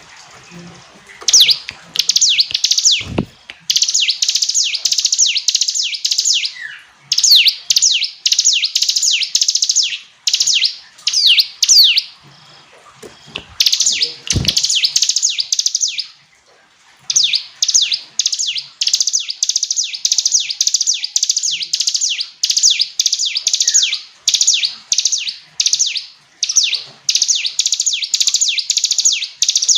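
Ciblek gunung (a prinia) singing: long runs of rapid, high-pitched chattering notes in phrases a few seconds long, with short pauses between them. Two dull thumps, one near the start and one about halfway through.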